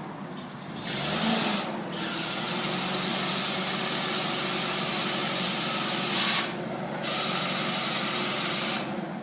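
Bombardier sidewalk plow's engine running, picking up speed about a second in, under a loud rushing noise that drops out twice and stops near the end.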